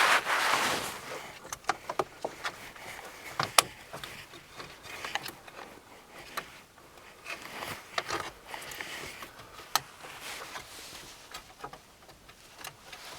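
Scattered sharp clicks, taps and rustling from hands working on dashboard wiring, plugs and plastic trim, with one loud click about three and a half seconds in.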